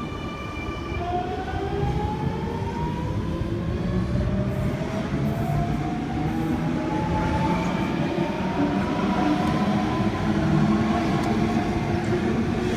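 Sydney Trains Millennium (M-set) electric train pulling out of the platform, its traction motors whining in several slowly rising tones as it picks up speed, over a steady low rumble of the train.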